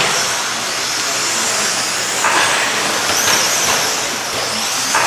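Electric RC stadium trucks with 13.5-turn brushless motors racing on a dirt track. A high-pitched motor whine wavers up and down over a steady hiss, with a brief louder burst a little over two seconds in.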